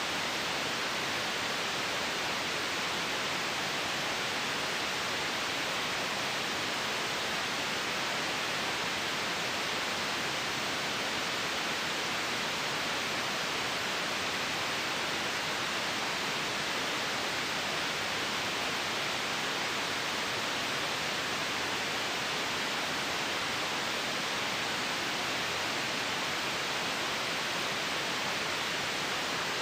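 Steady white noise: an even, unchanging hiss with no rise, fall or breaks.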